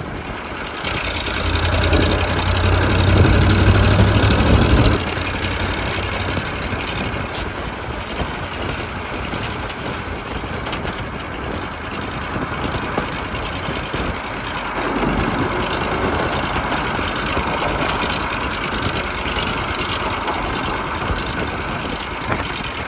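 1985 KAMAZ 4310 6x6 truck's V8 diesel engine running. It is louder with a deep rumble for a few seconds near the start, drops back suddenly about five seconds in, and then runs on steadily.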